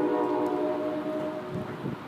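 A horn sounding a steady, held chord of several tones, cutting off about one and a half seconds in.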